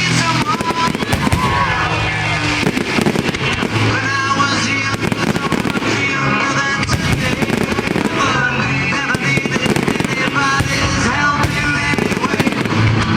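Fireworks going off in repeated bangs and crackles over loud music with singing played for the display.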